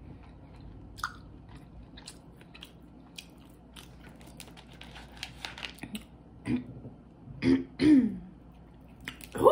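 Close-mic chewing of boiled crawfish and shrimp, with many small crunches and clicks. About two-thirds of the way in come a few loud, short throat-clearing sounds, and another at the very end.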